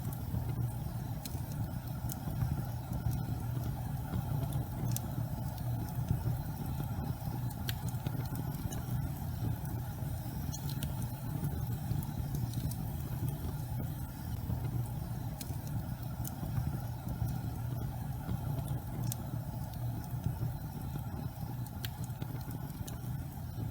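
Gas fireplace flames burning with a steady low rumble, sprinkled with scattered light crackles.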